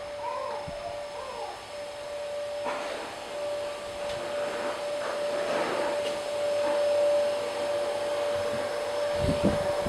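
A small electric motor running steadily, a constant whine over a rushing hum, like a fan or vacuum cleaner.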